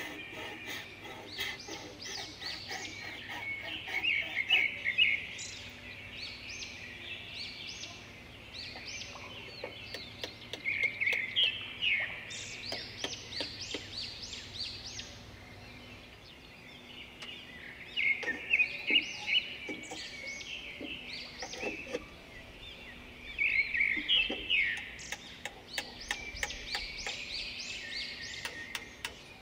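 Songbirds singing, with bursts of rapid chirping phrases every few seconds.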